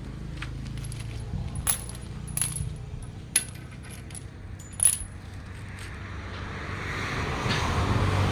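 A few sharp metallic clinks, four in all and spread over about five seconds, with a short ringing after each, typical of steel tools or parts being knocked or set down during truck tyre work. Near the end a broad rushing noise builds up.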